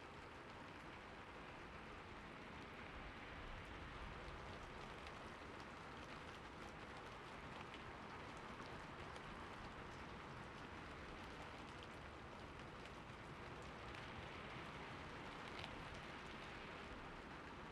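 Steady rain falling: an even, constant hiss with scattered drop ticks through it.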